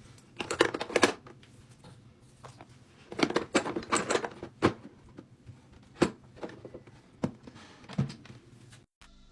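Small containers being handled and set down one after another: irregular clicks and knocks with short spells of rustling, over a low steady hum. It all cuts off shortly before the end.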